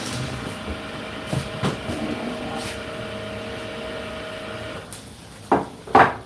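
Whirlpool WFO3P33DLXUK dishwasher on its 65°C full wash, running with a steady hum and a couple of light knocks. The hum cuts off about five seconds in, and two loud thumps follow half a second apart.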